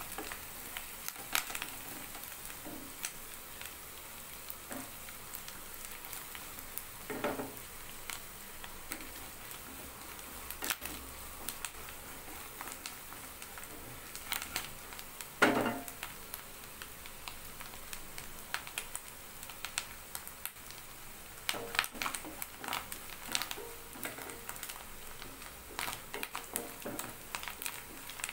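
Grated food sizzling in oil in a nonstick frying pan while a wooden spatula stirs it: a steady light sizzle with frequent small scraping clicks, and two louder strokes about a quarter of the way in and just past halfway.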